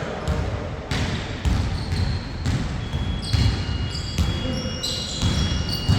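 A basketball being dribbled on a court, bouncing about twice a second. From about halfway through there are short, high sneaker squeaks.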